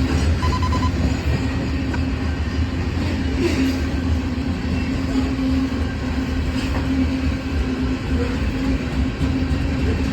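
Freight train rolling past close by: a steady rumble of cars and wheels on the rails, with a few faint wheel clicks.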